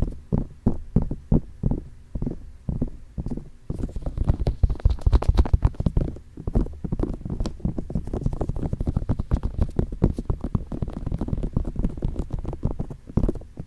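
ASMR ear tapping: fingertips tapping close on the microphone's ears. About three separate taps a second at first, then from about three seconds in a fast, dense run of tapping, slowing back to separate taps near the end.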